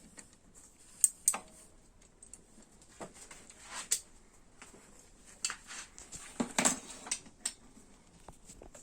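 Irregular metallic clinks and taps of a spanner and loosened bolts against the motorcycle engine's metal parts, with two sharp clinks about a second in and a cluster of clinks around six to seven seconds.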